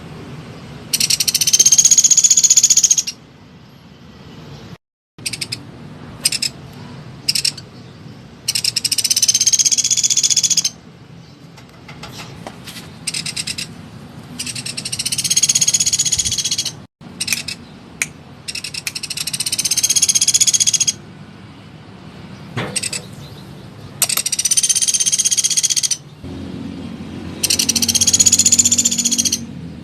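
Small woodpecker (the bird sold as 'pelatuk sampit') calling in six loud, fast rattling trills of about two seconds each. Each note rises and falls in pitch, and there are pauses of a few seconds between the trills.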